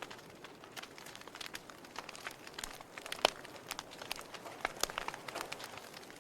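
Wood fire burning in a fireplace, crackling with irregular sharp pops and snaps over a soft hiss; one louder pop about three seconds in.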